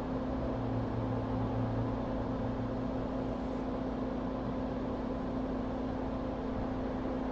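Steady hum of repair-bench electrical equipment with a fan running, a constant low tone over an even hiss.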